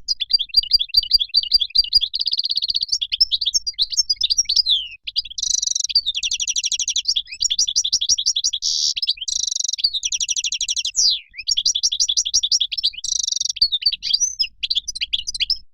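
European goldfinch song: a long run of fast, rapid twittering trills and chirps with only brief breaks, the kind of recording played to caged goldfinches to get them singing.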